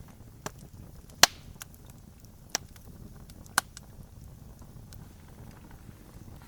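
Wood campfire crackling: a few sharp pops, the loudest about a second in, with fainter ticks over the low steady noise of the burning fire.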